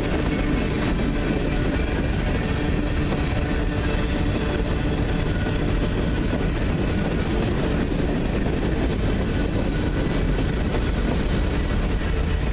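Norfolk Southern freight train rolling past on the rails, a steady rumble of wheels and cars.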